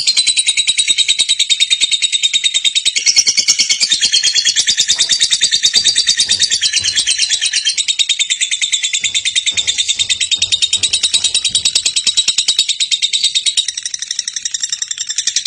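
Lovebird giving a long, unbroken ngekek: a very fast, shrill trilling chatter that keeps going without a pause and eases slightly near the end.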